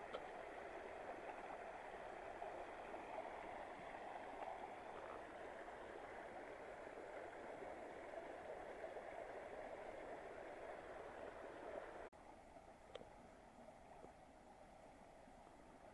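Stream water running steadily, a faint rushing sound. About twelve seconds in it cuts off abruptly to a quieter hiss.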